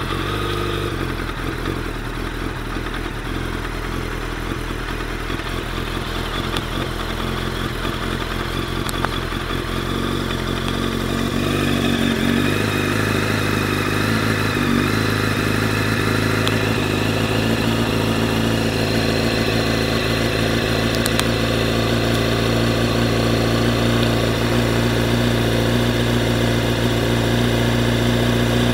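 1999 Honda CBR900RR Fireblade's inline-four engine idling just after a cold start. The idle rises a little about twelve seconds in, then runs steady.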